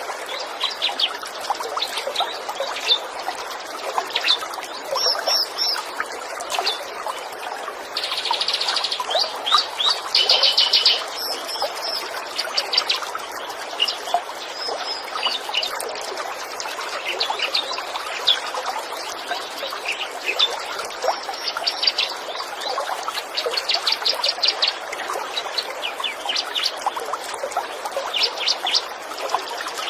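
A small stream trickling steadily over stones while small songbirds chirp and sing over it, with fast buzzy trills about eight to eleven seconds in and again near the end.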